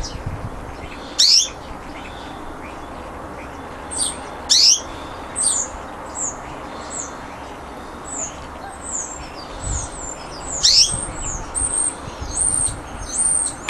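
Small aviary birds chirping: a string of short, high, sharp calls, a few spaced seconds apart at first and then coming in quick succession over the last few seconds.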